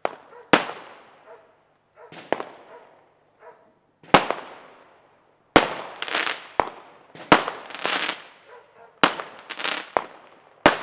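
Aerial fireworks going off: about nine sharp bangs at irregular gaps of roughly a second, each trailing off in a fading echo. From about the middle on, the louder bangs are followed by a short spray of hiss.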